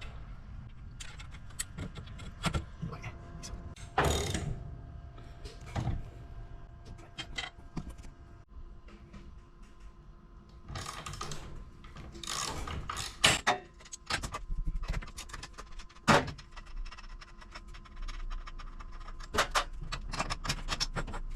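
Metal tools and parts clicking and knocking as a broken garage door spring is dismantled, with a few louder metallic strikes.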